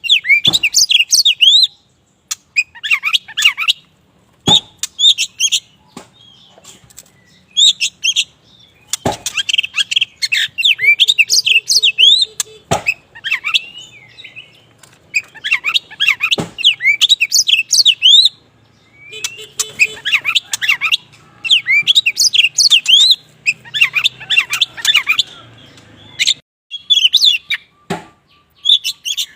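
Black magpie-robin (kacer wulung, the all-black form of the Oriental magpie-robin) singing loudly in repeated phrases of rapid, varied whistled and chattering notes, broken by short pauses. Occasional sharp clicks fall between the phrases.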